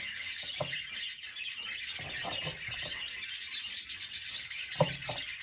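Budgerigar warbling and chattering continuously, with a few soft knocks, the sharpest one near the end.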